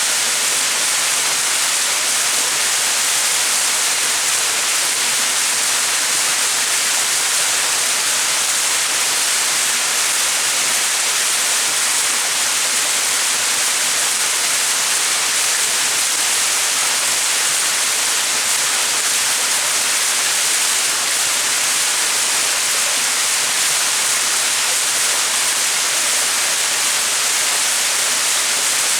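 Small mountain waterfall: a steady rush of falling water, a hiss weighted to the high end, with no change in level.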